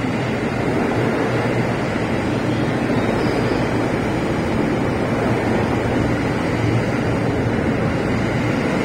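JR East E233/E231-series electric commuter train rolling steadily past along the platform as it pulls into the station: a continuous rumble of wheels on rail and running gear, with no distinct events.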